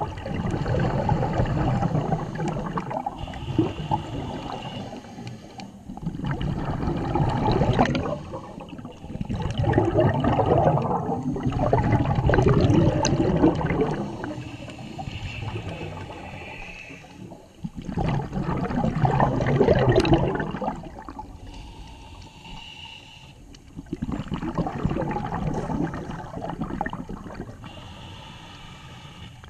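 Scuba diver breathing through a regulator underwater: long gurgling bursts of exhaled bubbles every few seconds, with quieter gaps between them, some carrying a brief higher hiss.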